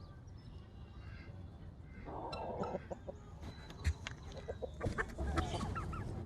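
A flock of chickens clucking and calling while feeding, with short knocks and pecking clicks; the calls grow busier about halfway through.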